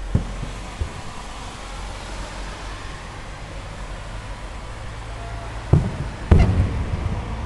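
Aerial firework shells bursting: two booms just after the start, then two more near the end, the last the loudest and trailing off in a rumbling echo, over a steady low background rumble.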